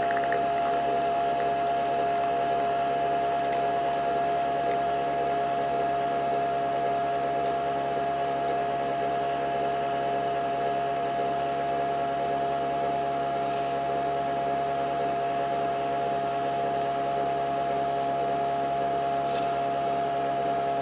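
Nespresso VertuoNext coffee machine brewing: a steady motor hum with one strong, even tone as it spins the capsule and pumps water through. Two faint ticks come in the second half.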